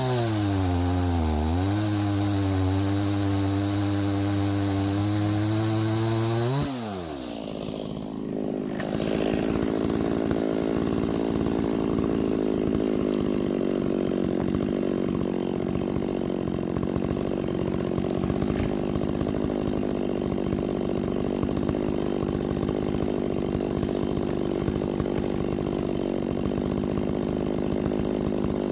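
Chainsaw running at high revs, its pitch dipping and climbing back, then dropping away sharply about six and a half seconds in. After a brief gap, a steadier engine runs on.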